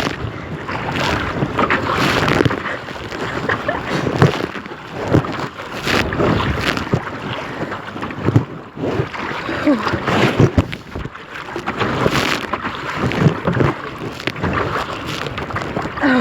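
Choppy river waves slapping and splashing against a kayak in irregular surges, with wind buffeting the microphone.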